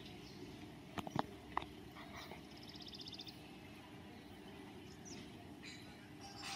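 Faint outdoor birdsong: small birds chirping, with a quick high trill about two and a half seconds in. A few sharp clicks come about a second in.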